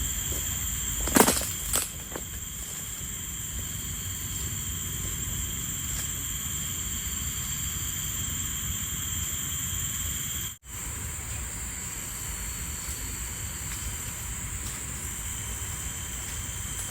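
Forest ambience: a steady high insect drone over an even low noise. A couple of sharp knocks come about a second in.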